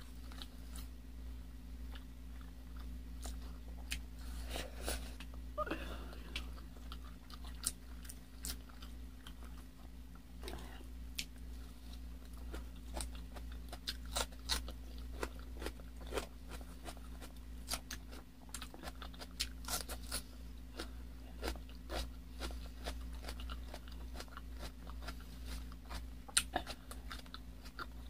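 Close-miked mouth sounds of eating: chewing with crisp crunching bites of raw red bell pepper and many sharp wet clicks scattered throughout, over a steady low hum.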